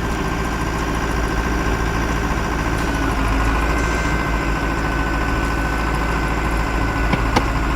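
Heavy vehicle engine running steadily, a low rumble with a steady high whine over it.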